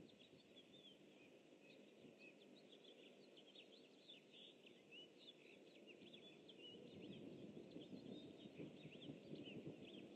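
Faint bird calls: a rapid, unbroken stream of short, high chirps and twitters, over a steady low background rumble.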